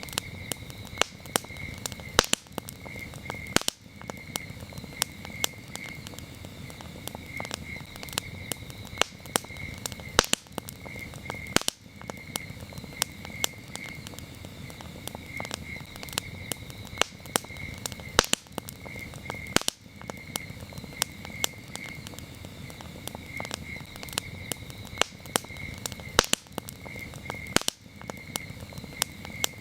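Wood campfire crackling, with frequent sharp pops and snaps over a low hiss of burning. Crickets chirp steadily in a high, pulsing trill behind it.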